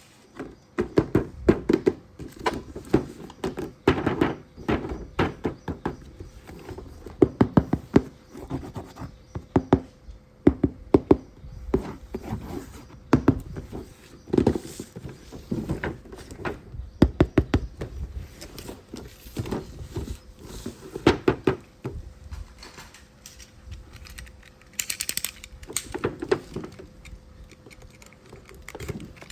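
Irregular knocks, taps and thuds of plastic toy parts and packaging being handled, with a brief rustle near the end.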